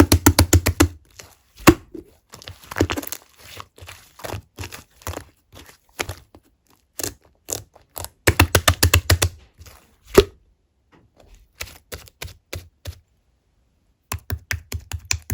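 Slime being squeezed and poked by hand, giving quick runs of sticky clicks and pops with a couple of single sharp snaps. It pauses for a few seconds near the end, then the rapid clicking starts again.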